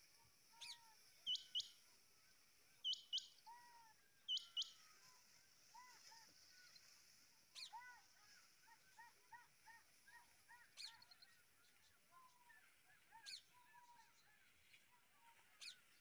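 Wild birds calling. Three loud pairs of sharp, high chirps come in the first few seconds, over many softer, short, repeated calls from other birds, with a faint steady high hiss underneath.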